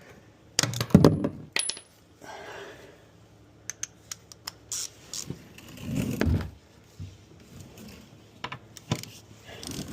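Socket and wrench clinking against steel while the skid steer's oil drain plug is worked loose: a string of sharp metal clinks, with a louder dull knock about six seconds in.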